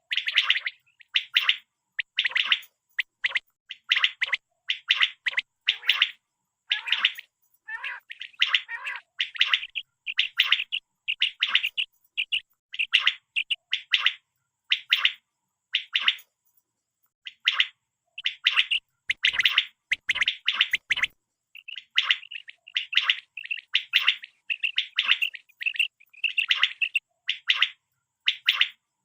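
Common quail calling: short, sharp notes repeated in quick groups, with brief gaps between the groups and one longer pause about halfway through.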